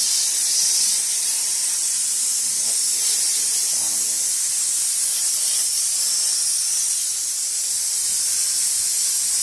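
STEMAR bedbug-killing machine spraying hot steam from its nozzle: a steady hiss.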